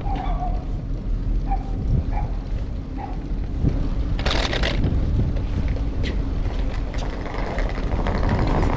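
Wind rumbling on the microphone of a camera riding along on a moving bicycle, with traffic noise, and a short loud hiss about four seconds in.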